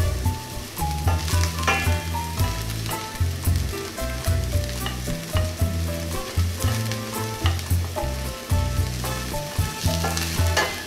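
Chopped onion and garlic sizzling in hot fat in a stainless steel frying pan, stirred with a wooden spoon. Background music with a repeating bass line and a simple melody plays underneath.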